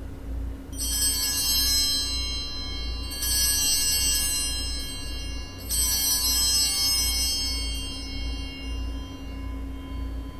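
Altar bells (sanctus bells) rung three times at the elevation of the chalice, marking the consecration. Each ring is a cluster of high, bright tones that dies away over a couple of seconds, over a steady low electrical hum.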